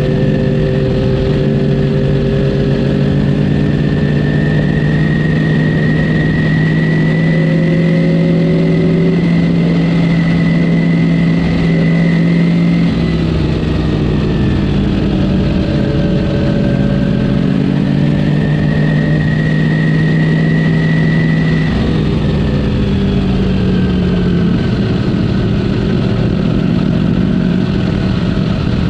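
Ducati Panigale V4 S V4 engine on its stock exhaust running under way. Its note climbs slowly and then drops off, twice, with a steady rush of noise underneath.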